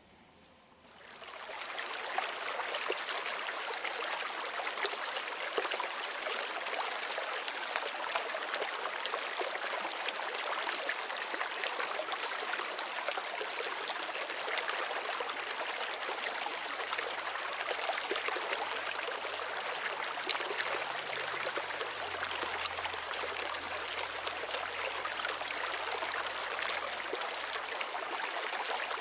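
Rainwater running down a road like a stream after a downpour: a steady rushing and trickling of water that comes up sharply about a second in.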